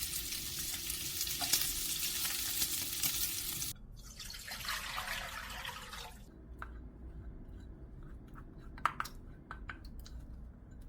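Food sizzling in a hot pan, with stirring clicks, that cuts off abruptly about four seconds in. Then comes a couple of seconds of running water, followed by a few light clicks and taps.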